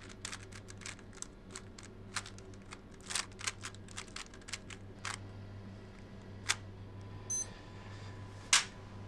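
Quick, irregular sharp clicks and clacks of small hard parts being handled fast against the clock, dense for about five seconds and then only a few scattered clicks. A short high electronic beep sounds about seven and a half seconds in.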